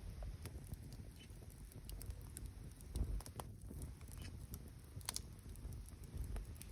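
Campfire of burning wood crackling, with scattered sharp pops and snaps over a low rumble and a louder thump about three seconds in.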